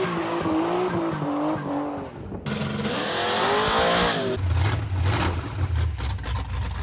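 A vehicle in short edited clips. First a wavering squeal with heavy noise, like tires spinning, which cuts off abruptly. Then a pitch that swoops up and down, then a low pulsing engine rumble that stops suddenly.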